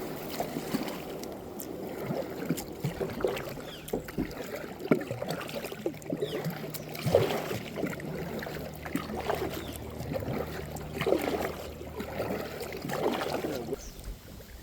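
Kayak paddle strokes in water, a splash every second or two, over a steady low hum that stops near the end.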